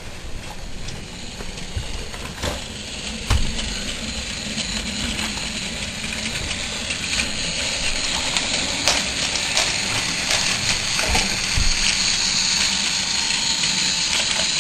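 Toy Thomas the Tank Engine train running along its track: a steady mechanical rattling whir with scattered clicks and knocks, growing louder toward the end.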